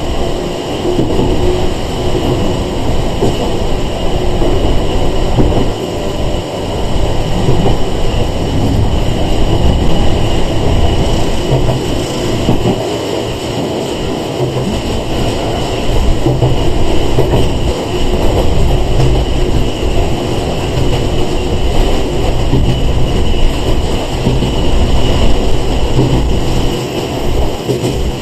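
Sangi Railway 101 series (ex-Seibu 401 series) electric train heard from inside the car while running: a steady rumble of wheels and running gear, with a thin steady high tone over it.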